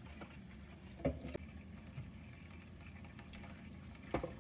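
Kitchen tap running water into a sink holding chicken eggs, with two sharp knocks, one about a second in and one near the end.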